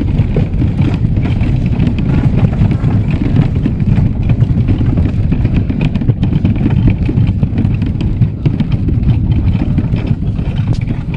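Loud, steady low rumble of a moving vehicle heard from on board, easing slightly near the end.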